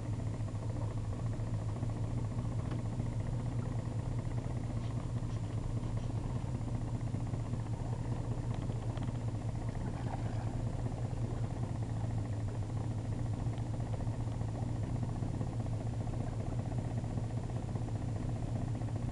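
Motorboat engine idling steadily with a low, even drone.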